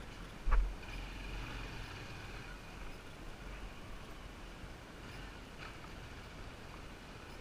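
Motorbike engine running steadily, a low rumble with road noise, with one sharp knock about half a second in.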